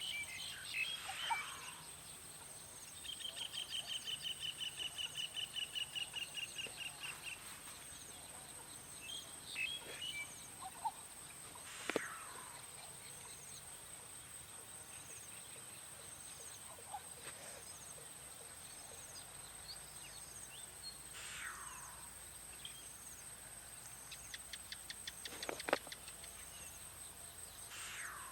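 Wild forest birds calling over a steady, high-pitched insect drone. A few seconds in comes a rapid trill of repeated notes lasting about four seconds, followed by three downward-sliding calls several seconds apart and a quick rattling series of notes near the end.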